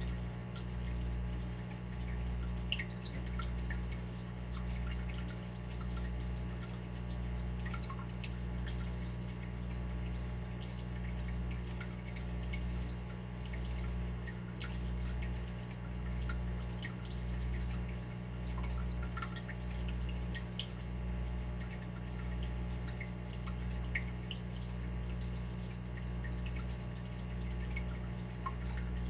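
Water dripping, scattered drops landing irregularly over a steady low hum that swells and fades about once a second.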